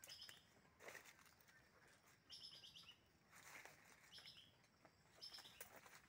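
Faint birdsong: a small bird repeating a short phrase of quick high notes about five times, with light rustling of leaves and branches in between.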